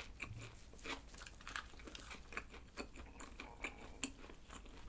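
Close-up chewing of a McCrispy fried chicken burger: a string of faint, sharp crunches, several a second, from the thick fried coating of the whole chicken-thigh patty. The coating is hard and crisp, almost burnt at the edges.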